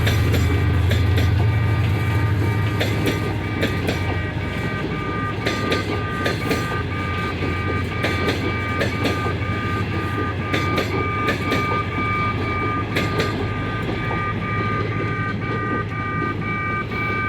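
CSR SDD7 diesel locomotive hauling passenger coaches past at a level crossing: its engine drone eases off over the first few seconds while the wheels click over the rail joints. A high ringing warning signal, the crossing's alarm, sounds in steady repeated pulses over the train noise.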